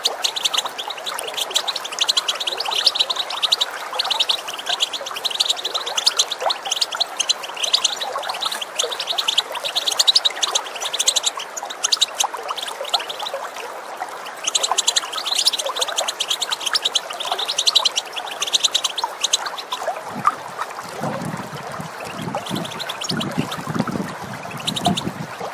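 European goldfinch twittering call, a fast chatter of notes in bouts broken by short pauses, over steady running water. Near the end a lower pulsing sound joins in.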